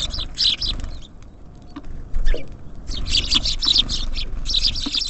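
Small songbirds, tits and sparrows, chirping in rapid high clusters: one bout, a lull of about two seconds with a few scattered chirps, then a longer bout, over a steady low rumble.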